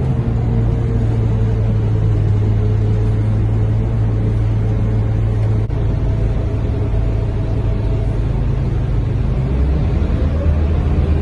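Scania K230UB bus's diesel engine and drivetrain heard from inside, running steadily with a deep hum. The tone shifts about halfway through, and near the end a rising whine comes in as the bus picks up speed.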